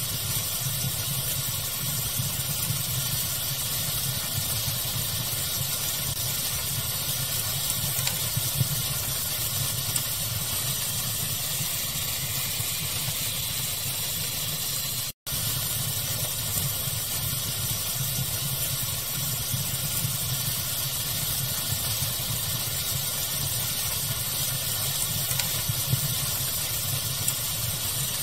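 Wood fire crackling over a steady bed of pink noise: a constant hiss with a low rumble underneath, and small crackles popping here and there. About halfway through the sound cuts out for an instant and resumes, like a loop edit.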